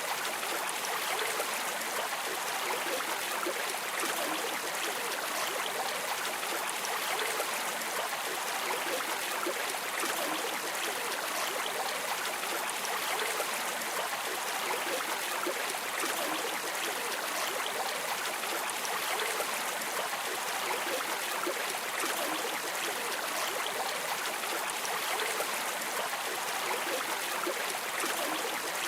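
River water streaming and rushing steadily, an even hiss of flowing water with no breaks.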